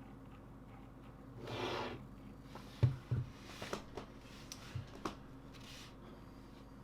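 Hands at a mechanical keyboard: a brief rustle, then about six scattered clicks and soft knocks, not a steady run of typing.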